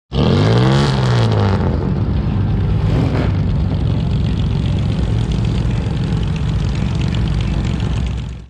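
Car engine revved once, its pitch rising and falling in the first second and a half, then left idling steadily.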